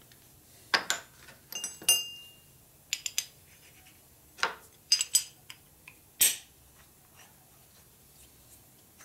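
Small metal parts and tools being handled on a workbench: a series of sharp clinks and taps, some ringing briefly, over the first six seconds or so.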